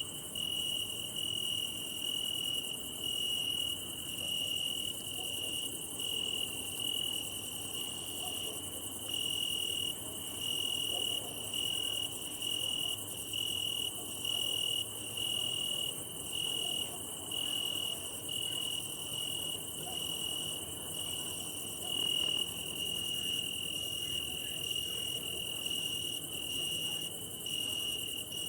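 Crickets chirping: a steady, high, shrill trill with short breaks every second or two, over a fainter high hiss.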